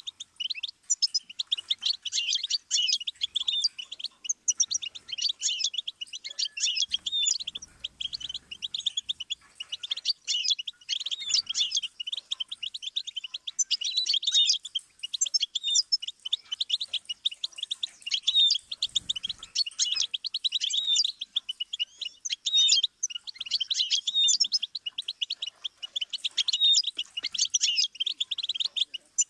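Goldfinch singing a long, unbroken song of fast twittering trills and chirps.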